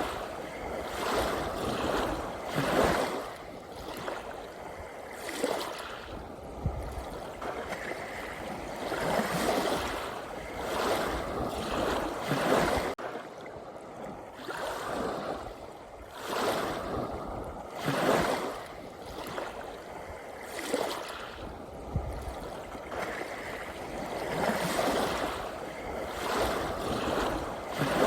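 Gentle ocean waves washing in, a steady wash of water that swells into a surge every few seconds and then ebbs.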